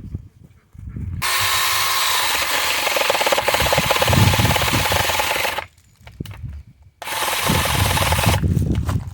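Cordless 6-inch mini chainsaw running and cutting wood: the electric motor whines as the chain rasps through a branch. There is one long cut of about four seconds, then a shorter one of about a second and a half.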